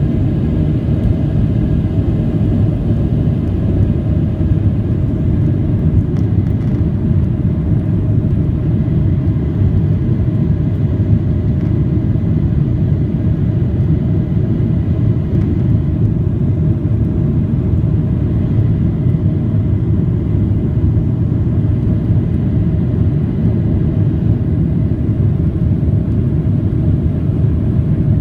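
Jet airliner engines and airflow during takeoff, heard inside the cabin as a loud, steady low rumble with a faint steady whine above it.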